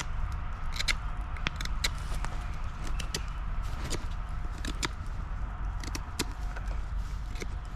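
Campfire burning, with irregular sharp crackles and pops of burning sticks over a steady low rumble.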